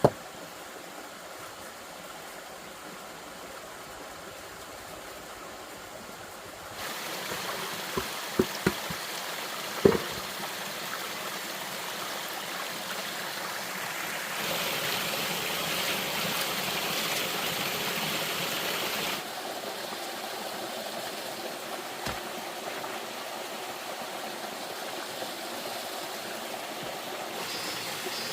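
Steady rush of flowing water, stepping louder and softer abruptly a few times. A few sharp knocks come about eight to ten seconds in, and one more later.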